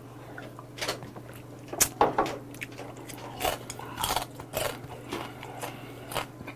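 Close-miked chewing of raw seasoned chilge (small mud crab), the hard shells crunching between the teeth in irregular bites.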